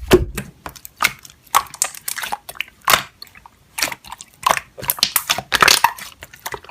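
Slime being squished and pressed by hand, giving irregular sharp pops and crackling clicks, a few each second, thickest for a moment near the end.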